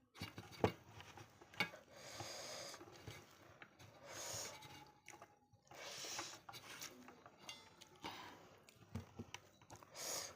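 Quiet eating sounds: scattered light clicks and several short, soft hissy noises spaced a second or two apart.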